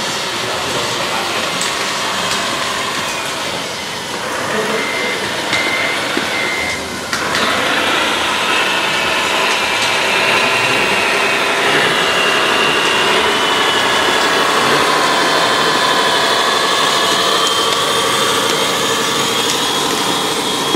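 Radio-controlled model excavator running: a steady mechanical whine whose pitch wavers as it works. There are three short beeps a few seconds in, and the sound jumps louder about seven seconds in.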